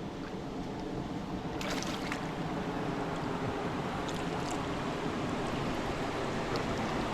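Creek water running steadily, with a brief splash about two seconds in.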